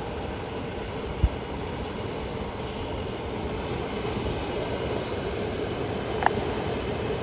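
Steady roar of two canister gas stoves, a Firemaple Mars and a Soto WindMaster, burning at full flame under heat-exchanger pots in a cold wind, with a faint steady tone in the roar. A short thump about a second in and a couple of faint clicks near the end.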